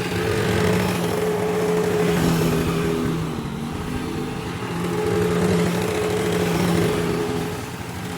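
An engine running steadily with a rough low rumble, its level swelling and easing slightly.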